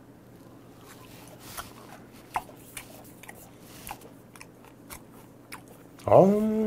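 A person chewing a piece of raw beef offal (blood pouch), with small clicks of the mouth and teeth. About six seconds in comes a loud drawn-out vocal exclamation that rises, holds and falls in pitch.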